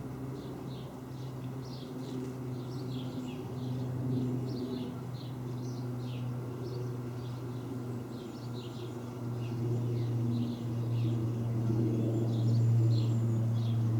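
Birds chirping many times in quick, short calls over a steady low drone of an aircraft overhead, which grows louder near the end.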